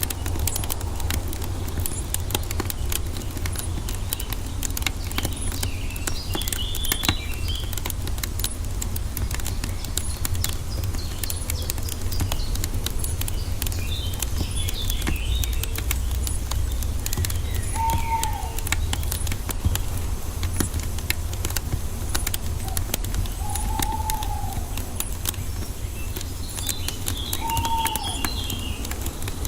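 Wood fire crackling with many small pops over a steady low rumble. Birds call over it: scattered high twittering chirps, and three short, low, arching calls in the second half.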